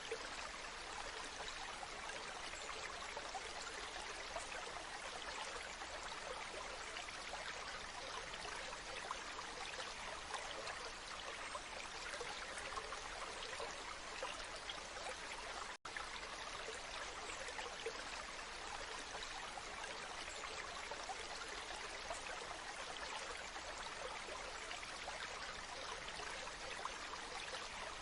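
Waterfall: a steady rush of falling water, with a momentary dropout a little past halfway.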